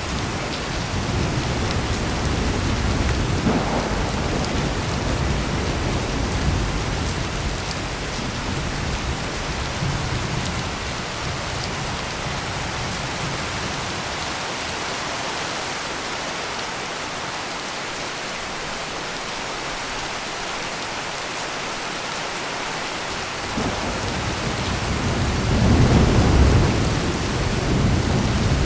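Heavy rain falling steadily. Thunder rumbles through the first dozen seconds and fades out. A second, louder roll of thunder builds up about 23 seconds in and peaks a few seconds later.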